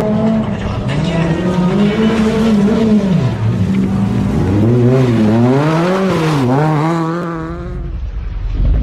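Autocross race car's engine being driven hard, its pitch climbing and dropping repeatedly as the throttle is worked. It fades away near the end, leaving a low rumble.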